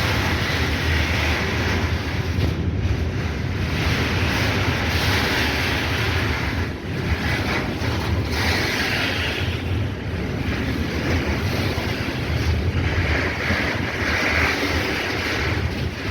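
Freight train rolling past: a steady low rumble of wagon wheels on the rails, with a hiss that swells and fades several times.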